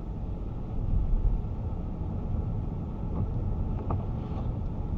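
Steady engine and road noise heard inside the cabin of a moving car, a low rumble with no distinct events.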